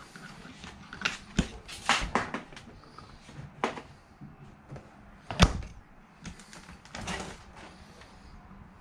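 Doors and latches of an RV's kitchen fittings being opened, handled and shut: a run of separate clicks and knocks, the sharpest about five and a half seconds in.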